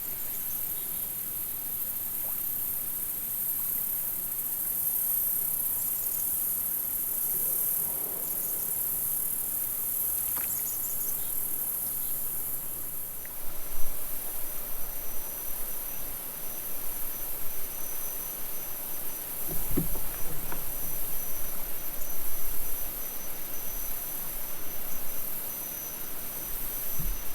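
Steady high-pitched insect buzzing, with kayak paddle strokes and water splashing in uneven pulses from about halfway.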